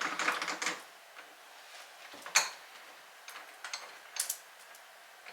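Small clicks and taps from handling and fitting door lite parts in an entry door: a quick cluster at the start, one sharp click a little past two seconds in, then a few lighter ticks.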